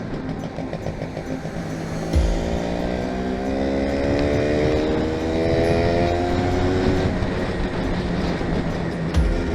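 Motorcycle engine pulling under acceleration, its pitch rising slowly over several seconds, then dropping briefly and climbing again. A low thump comes about two seconds in and again near the end.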